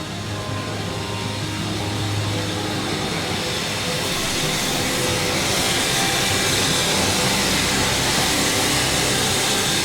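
Train on a heritage railway line approaching, its noise growing steadily louder. A steady low hum in the first seconds gives way to a rising hiss from about halfway through.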